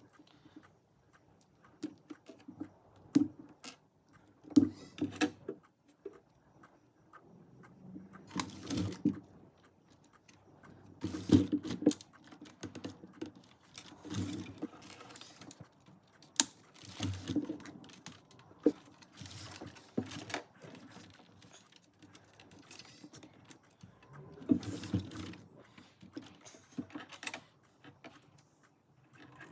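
Hands handling small objects and packaging: irregular clicks, taps and short rustles, with a few louder knocks scattered through.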